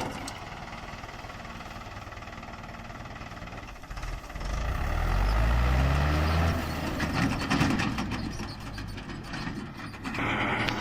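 Tractor engine driving a reaper binder, running steadily and then revving up and getting louder about four seconds in before easing off again.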